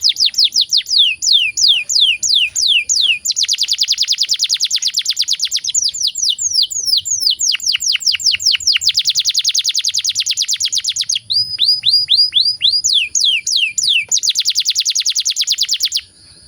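Domestic canary singing a long, unbroken song: runs of falling whistled sweeps alternate with very fast rattling trills, the song stopping near the end. A faint steady high-pitched tone runs underneath.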